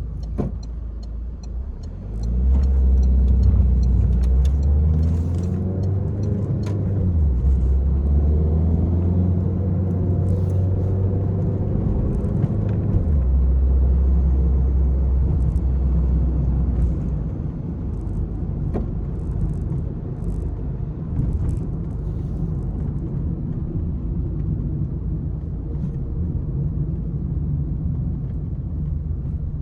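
Peugeot 301 engine accelerating hard: the revs climb from about two seconds in, drop at a gear change around seven seconds, climb again, then ease back to a steadier, quieter run after about seventeen seconds.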